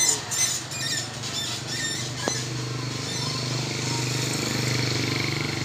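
Isuzu Panther Grand Royal's diesel engine idling steadily, heard at the tailpipe as an even low exhaust chug. Birds chirp in the first two seconds.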